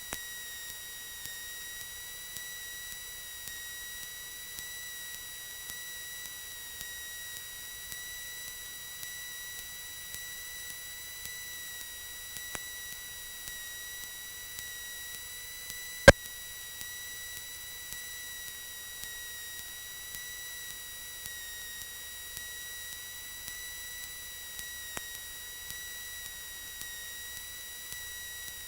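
Steady high-pitched electrical whine in a Cessna 172's intercom audio, with a faint tick about once a second and a single sharp click about halfway through.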